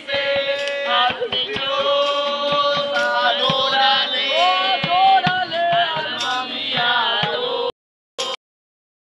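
Several voices singing together. The sound cuts out abruptly twice near the end.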